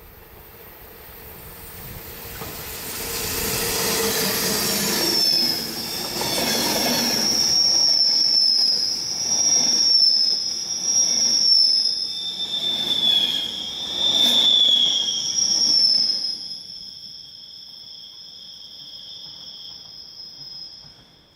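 A train passing, swelling over the first few seconds, with its wheels squealing in two high, wavering tones. About sixteen seconds in the rumble drops away while the squeal goes on more quietly, then fades near the end.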